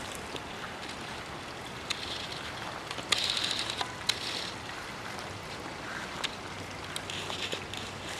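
Marina ambience of steady wind and water noise, with scattered light knocks and clicks and a brief rattle about three seconds in.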